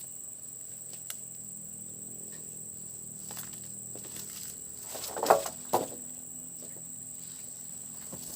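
Insects trilling in one steady high tone, with scattered faint clicks and two louder short rustles or knocks a little past five seconds in.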